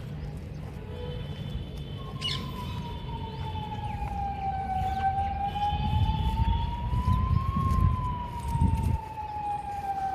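A siren wailing in one long tone that starts about two seconds in and slowly falls, rises and falls again in pitch, over low rumbling background noise.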